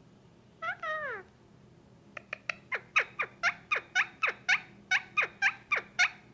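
Male Indian ringneck parakeet making the calls he gives when petted: one drawn-out call falling in pitch, then a fast run of short, sharp calls that each drop in pitch, about four a second.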